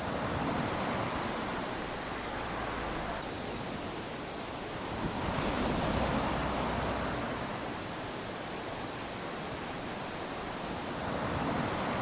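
Small ocean waves lapping onto a sandy beach, a steady wash that swells three times as each wave runs up the sand.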